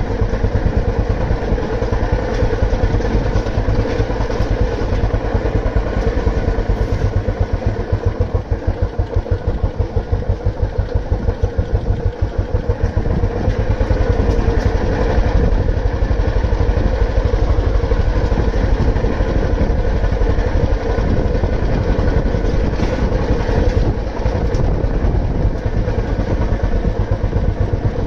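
Old Royal Enfield Bullet 350's single-cylinder four-stroke engine running while the bike is ridden, with a steady, even thumping exhaust beat.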